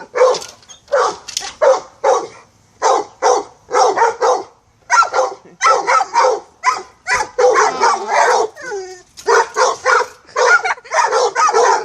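Pit bulls barking in quick, repeated bursts, several barks a second with brief gaps.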